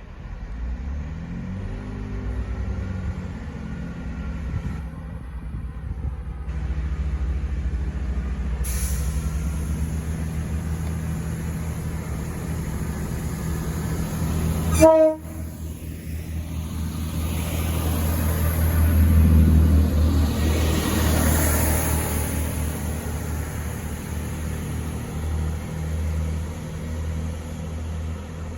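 Chiltern Railways Class 165 diesel multiple unit 165008 running with a steady low diesel drone as it departs, louder for a few seconds as it draws past. About halfway through it gives one short horn tone.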